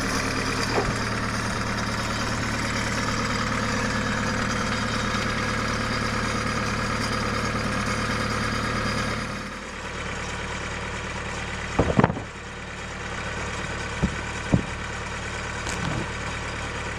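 Portable sawmill engine running steadily, dropping to a quieter, lower run about nine seconds in. A few sharp knocks follow in the second half.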